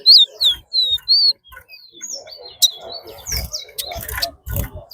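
Caged songbirds singing in a song race: loud, clear whistled notes gliding up and down in the first second and a half, then softer, scattered chirps, with a few dull thumps toward the end. Each completed song is one that the judge counts.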